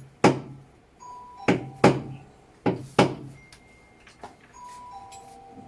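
Five sharp knocks and clunks in the first three seconds, with faint single held tones sounding between them and again near the end.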